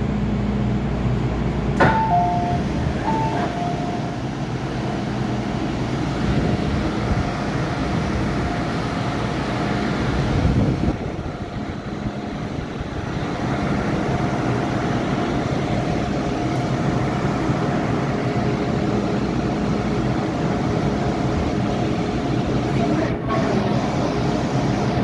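MTR M-Train electric multiple unit running, a steady rumble with a steady whine from the train's equipment. There are short beeping tones about two seconds in and a brief dip in the noise about eleven seconds in.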